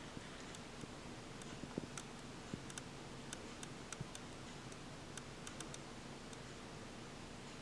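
Faint, irregular small clicks and taps, a few a second at most, over a low steady hum.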